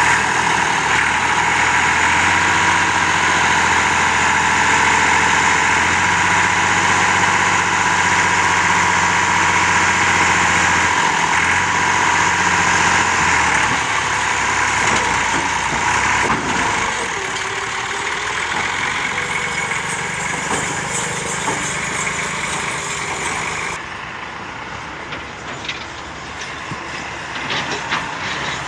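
Diesel engine of a Doosan DX140W wheeled excavator running under load with a steady whine, heavier for the first half and then easing to a lower level.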